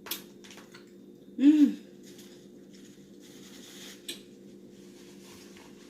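A person chewing food with wet mouth clicks and smacks, and a short hummed "mm" of enjoyment about one and a half seconds in, the loudest sound. A faint steady hum runs underneath.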